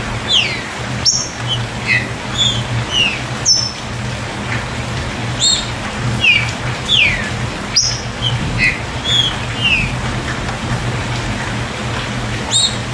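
Short, sharp, downward-sliding bird chirps repeated irregularly, with a few sharp clicks, over a steady hiss and a low hum.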